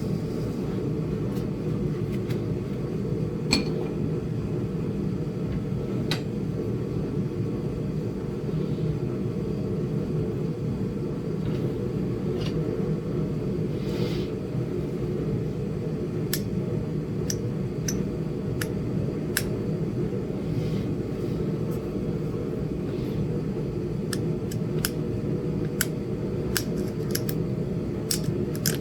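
Small sharp clicks of Flint Ridge chert being knapped as flakes come off the edge of a small point. There are a few scattered clicks at first, then a quicker run of them from about halfway, roughly one or two a second, over a steady low hum from a space heater.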